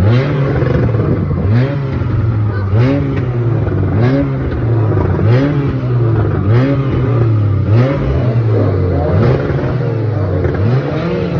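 Car engine being revved over and over in a steady rhythm, about once every second and a quarter. Each blip rises quickly in pitch, then settles back.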